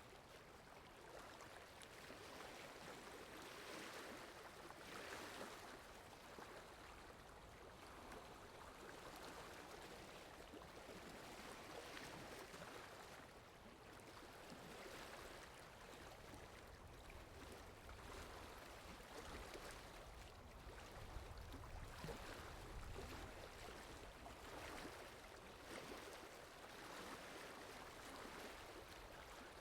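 Faint, steady rain-and-water ambience of a rainy forest, a soft hiss that rises and falls in gentle swells, with a low rumble for several seconds past the middle.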